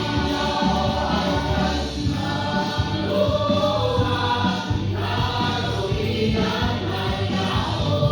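A group of voices singing together in chorus over musical accompaniment, the sung notes held and sliding between pitches.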